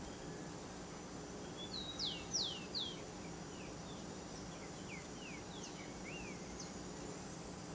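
A bird calling: a quick run of short, sharply falling whistled notes about two seconds in, then fainter, scattered falling notes, over a steady low hum.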